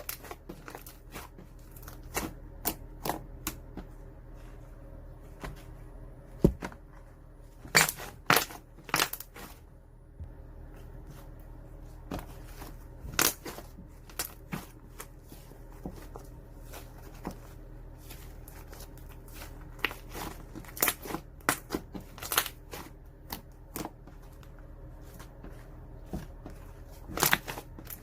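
Irregular crackling and crinkling handling noises with scattered sharp clicks, a few of them loud, over a steady low hum.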